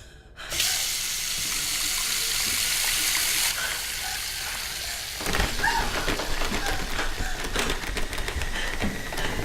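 Water running steadily, like a tap gushing into a sink. The hiss lessens about three and a half seconds in, and the water runs on more roughly after that.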